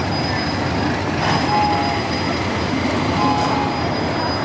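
Steam train's passenger cars rolling slowly along the track, with thin wheel squeals on the rails that come and go from about a second and a half in.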